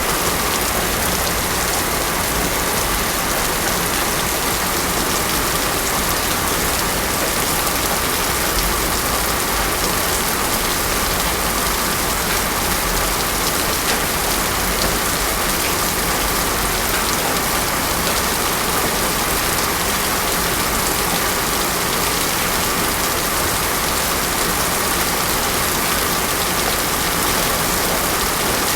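Heavy rain falling steadily on a paved road, an even, unbroken hiss with no thunder.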